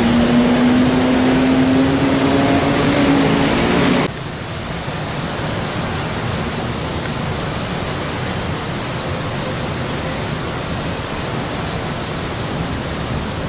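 Road traffic noise: a vehicle engine hum, its pitch slowly rising, over a broad rush, cut off abruptly about four seconds in. After that, a steady, even rush of traffic.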